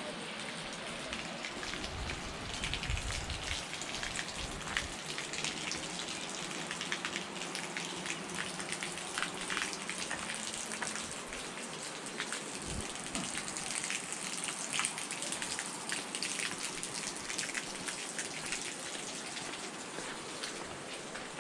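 A small trickle of water falling and splashing, a steady dense patter of drops, with a few low thumps.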